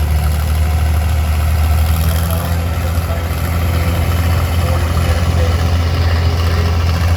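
Engine running steadily at low speed, a low, even drone.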